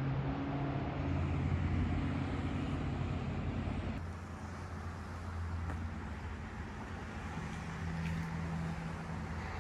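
A motor vehicle's engine running, a low steady hum, with an abrupt change about four seconds in.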